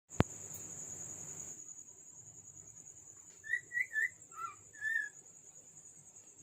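Cockatiel whistling a short phrase of about six clear notes, some bending up or down in pitch, about three and a half seconds in.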